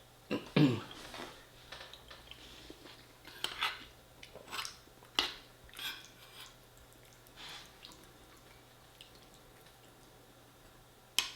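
A person eating lasagne: wet chewing and mouth sounds with scattered short clicks of cutlery, the loudest about half a second in.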